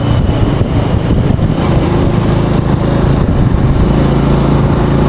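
Motorcycle engine running steadily while being ridden along a road, its note shifting slightly about four seconds in.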